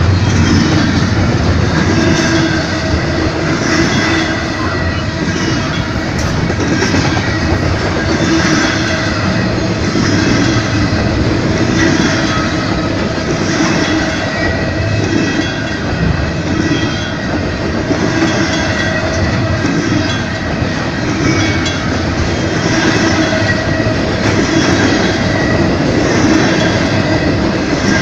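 Canadian Pacific freight train's cars rolling past at close range: a steady loud rumble with a regular clickety-clack of wheels over the rails.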